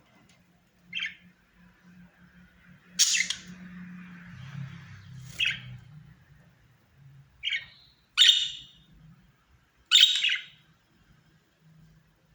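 Budgerigar giving six short chirps spread over about ten seconds, with the loudest ones about three, eight and ten seconds in.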